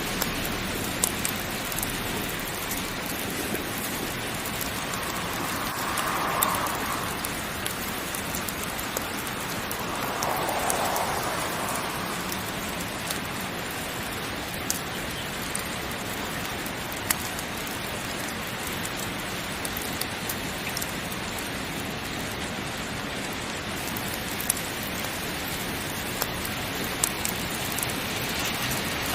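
Steady heavy rain falling, with scattered sharp clicks and two soft swells in the first half.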